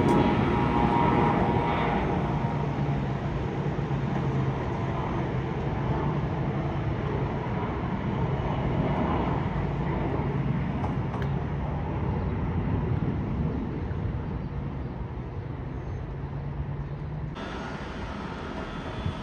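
Jet airliner engine noise: a steady broad rumble with a low hum that slowly eases off, changing abruptly about seventeen seconds in.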